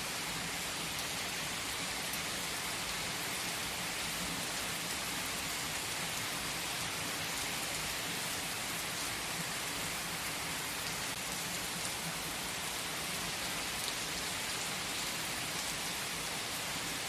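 Steady rain: an even hiss with faint ticks of drops, unchanging throughout.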